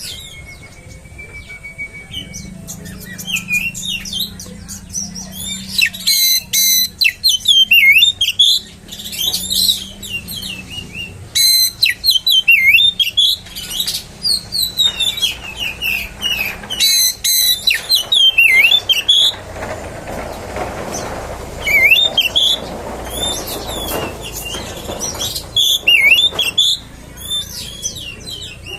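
Oriental magpie-robin (kacer) singing a loud, varied song of quick rising and falling whistles broken by fast rattling trills, phrase after phrase with only short gaps.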